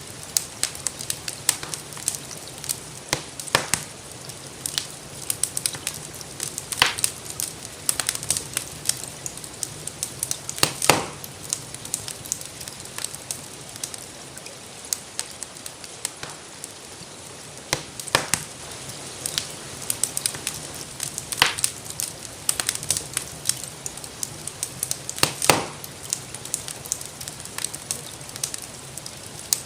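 Wood fire crackling in a fireplace: a constant patter of small pops and a few louder snaps every several seconds, over a steady hiss of gentle rainfall.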